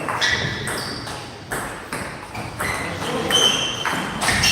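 Table tennis rally: a celluloid-type ball knocking back and forth between paddles and the table, a string of sharp clicks at uneven spacing.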